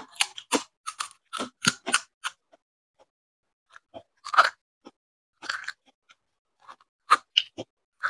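Close-up crunching and chewing of crisp fuchka (pani puri) shells: a quick run of crunches over the first two seconds, then scattered single crunches.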